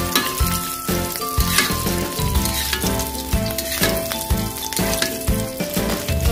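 Oil sizzling and crackling in a pan as shrimp-paste omelettes (tortang alamang) fry, with background music carrying a simple melody and bass line.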